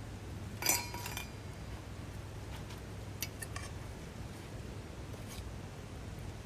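A short ringing clink of hard objects knocking together about a second in, followed by a few light clicks, over a steady low background rumble.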